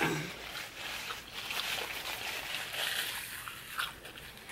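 Wet chewing and mouth sounds of someone eating, with scattered small clicks.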